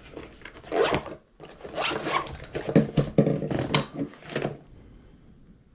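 A series of short, irregular rasping scrapes, stopping a little past four seconds in.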